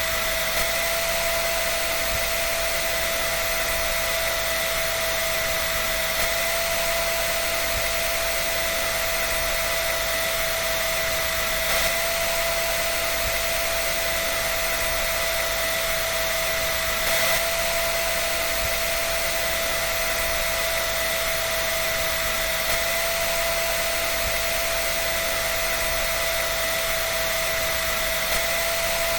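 Dryer running steadily: an even rush of air with a constant high whine, and a couple of faint soft knocks.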